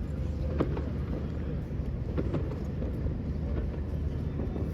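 Night city street ambience: a steady low rumble of passing traffic, with a few faint taps and knocks.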